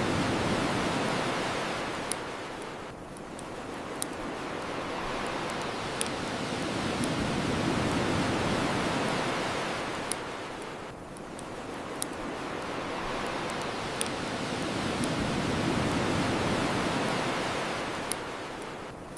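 Ocean waves washing onto the shore, swelling and ebbing about every eight seconds, with sharp pops from a crackling wood bonfire about every two seconds.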